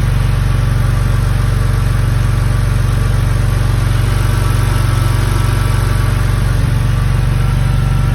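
BMW engine idling steadily just after a cold start, with a strong, even low hum. There is no lifter tick, which the owner credits to a Valvoline Restore & Protect oil treatment.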